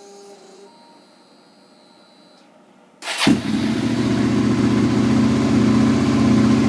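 A 2007 Suzuki SV650S's V-twin engine, breathing through a new Yoshimura exhaust, fires up suddenly about three seconds in. It settles straight into a loud, steady idle.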